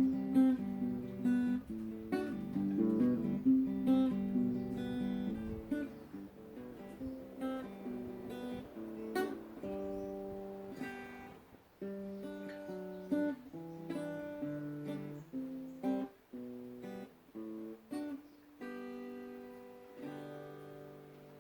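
Acoustic guitar music: strummed chords for the first several seconds, then sparser picked notes and chords with short pauses between them.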